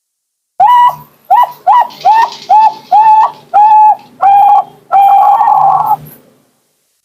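Perkutut (zebra dove, Bangkok song line) singing its long cooing song: a run of about eight clear whistled coos, each sliding up and then held, the later notes longer, ending in one long drawn-out coo.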